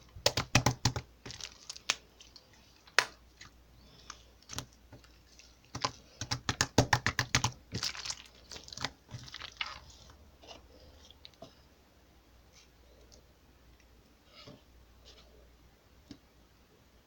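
Slime being squeezed and poked by hand, giving runs of quick wet clicks and crackles. Dense runs come in the first second and again about six to eight seconds in, then only scattered clicks.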